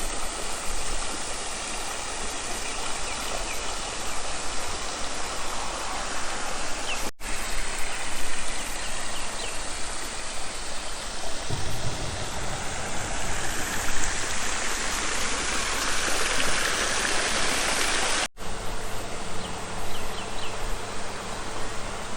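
Steady rushing outdoor noise, in three stretches joined by abrupt cuts, with a few faint high chirps.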